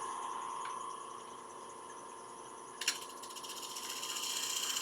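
Wood lathe running with a steady whine, a single sharp knock about three seconds in, then a scratchy hiss building toward the end.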